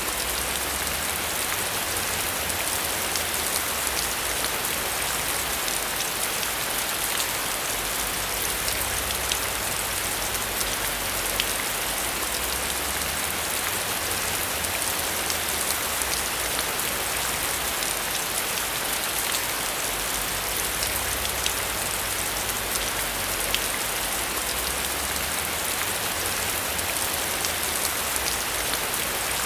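Heavy rain falling steadily: a dense, even hiss with many sharp individual drop ticks, over a low rumble that swells and fades every few seconds.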